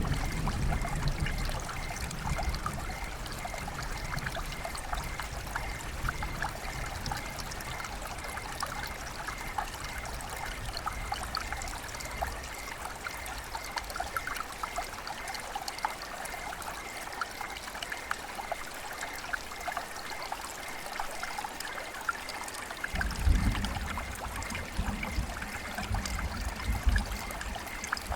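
Rain falling among trickling, running water, with a dense patter of small drops. A low rumble sits under it at the start and returns in the last few seconds.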